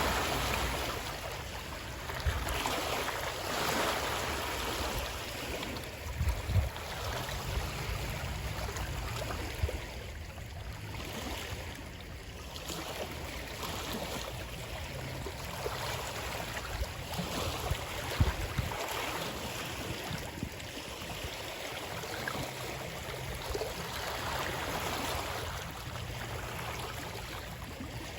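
Moving water, a steady rushing that swells and eases every few seconds, with a few brief low thumps.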